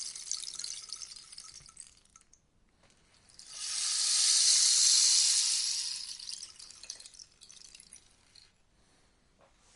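Rainstick's pebbles pattering down inside the tube like rain: one cascade trickles out about two seconds in, then, after a short pause, the stick is turned again and a fuller rush swells up, peaks and thins to a few last scattered ticks.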